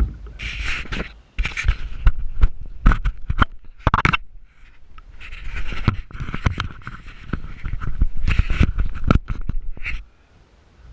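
Loud, irregular scraping and knocking, with rushes of noise in between, that stops abruptly near the end.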